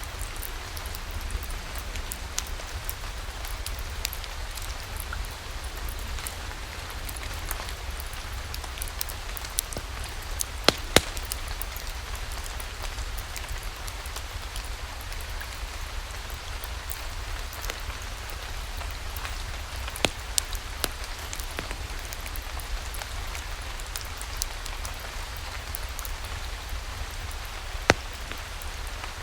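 Steady rain falling, an even hiss over a low rumble, with a few sharp pops standing out: a pair about a third of the way in, one about two-thirds in and one near the end.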